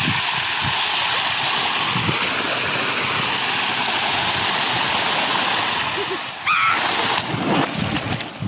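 Water rushing and splashing steadily. About six and a half seconds in comes a brief high squeal and a louder surge of splashing, then scattered knocks.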